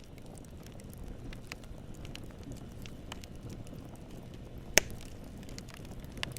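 Campfire burning with a steady low rumble and scattered crackles and pops of burning wood, one sharp loud pop a little before the end.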